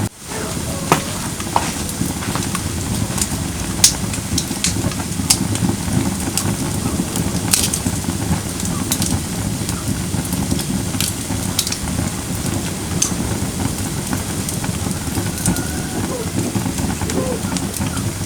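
Firewood burning in a brazier. A steady low rumble of flames with scattered sharp crackles and pops from the burning logs.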